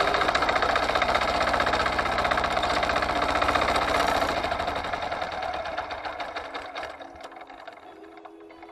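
Forte 135E walk-behind tractor's engine running with a fast, even chugging beat, fading away over the last few seconds as music comes in.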